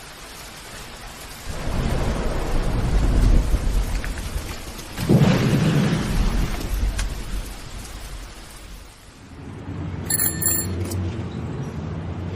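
Steady rain with two long rumbles of thunder, about two and five seconds in. Near the end, music with a brief high chime begins to come in.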